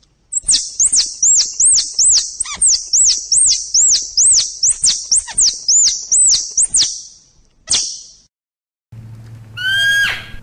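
An animal's high-pitched chirps in a quick run, about two or three a second, stopping about seven seconds in, with one more just before eight seconds. Near the end, over a low steady hum, a horse whinnies.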